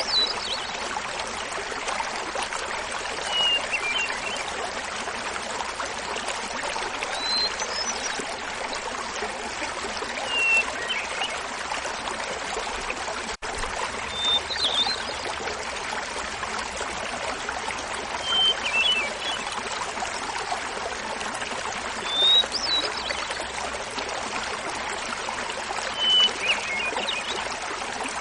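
Small mountain waterfall babbling steadily, with a hermit thrush singing over it: about eight flute-like phrases, one every three to four seconds, each a held opening note followed by a quick flourish, alternating between a higher and a lower pitch.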